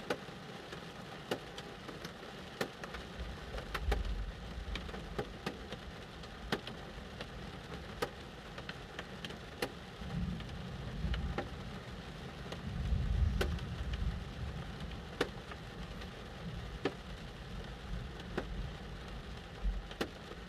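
Rain falling on a car, heard from inside the cabin: a steady patter with many single drops ticking sharply. A low rumble swells up a few times.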